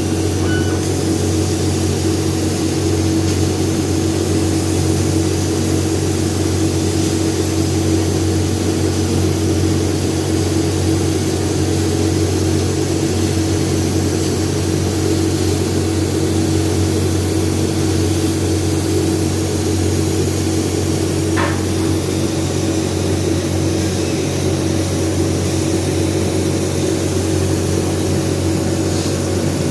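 Laser cutter running as it cuts MDF: a steady machine hum, with one brief click about two-thirds of the way through.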